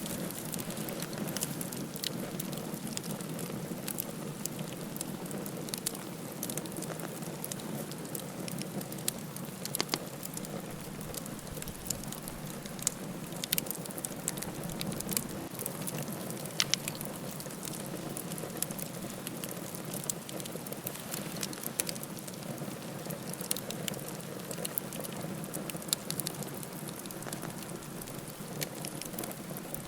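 Campfire burning: a steady low rush of flame with frequent sharp crackles and pops scattered throughout.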